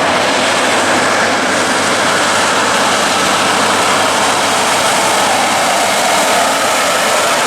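Steady, loud roar of heavy haulage trucks going by, engines working under load with tyre noise on the road.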